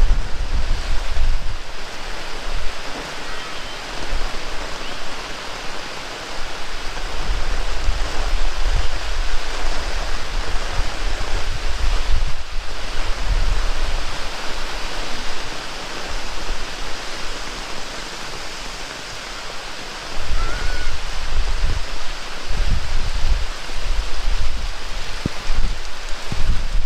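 Heavy rain pouring steadily, with strong gusts of wind buffeting the microphone. The gusts ease for a few seconds and come back hard about twenty seconds in.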